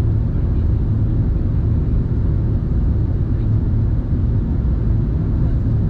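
Steady cabin noise of an Airbus A380 in flight: the low, even hum of its Rolls-Royce Trent 900 engines and rushing airflow heard from inside the passenger cabin.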